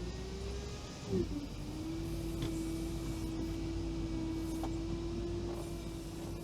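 Engine of a Veter all-terrain vehicle running at steady revs, with one even, held note; it wavers briefly with a short louder sound about a second in.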